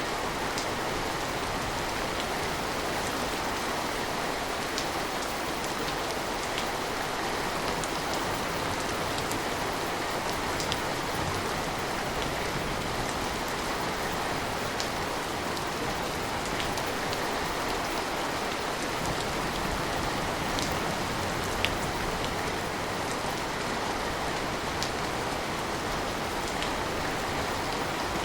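Steady rain, with scattered individual drops ticking now and then over the even hiss.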